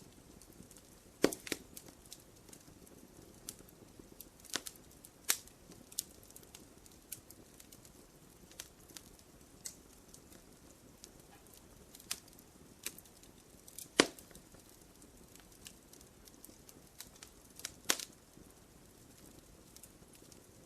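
Wood fire crackling in a fireplace: irregular sharp pops and snaps over a soft low hiss, with a few louder pops scattered through, the loudest about two-thirds of the way in.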